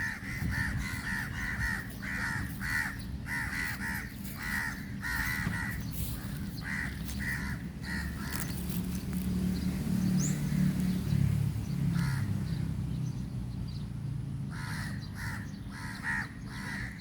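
Birds calling in quick runs of short, harsh calls, dropping away in the middle and picking up again near the end. A low rumble rises and fades under them about ten seconds in.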